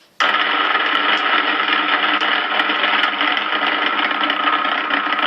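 Motorcycle engine running steadily; the sound cuts in sharply just after the start.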